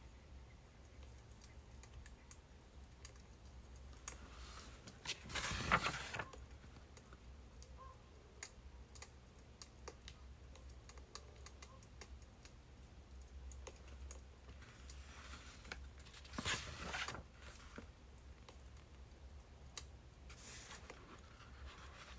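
Birch-wood fire crackling, with small sharp pops scattered irregularly throughout over a faint low hum. Two louder rustling swishes, each lasting about a second, come about five and sixteen seconds in.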